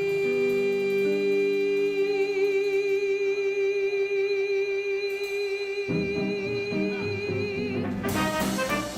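Live swing band with a female vocalist: she holds one long sung note with vibrato over sustained band chords. About six seconds in, the rhythm section starts playing in tempo, and near the end the full band with horns comes in.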